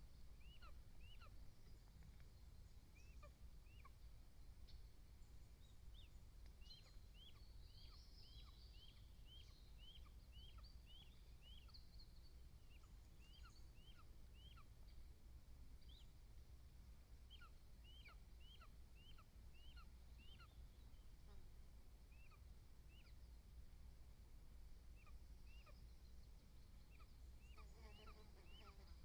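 Faint bird calls: short high notes repeated about two a second in several bouts, over a low steady rumble.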